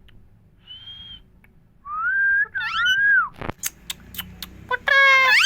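Pet green parrot whistling and calling: a short steady whistle, then gliding, rising and falling calls, a run of sharp clicks, and a rising harsh call near the end.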